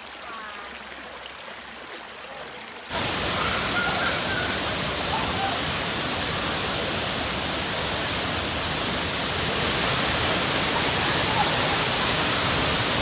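Quieter rushing of running water, then about three seconds in an abrupt jump to the loud, steady rush of a waterfall, which lasts to the end.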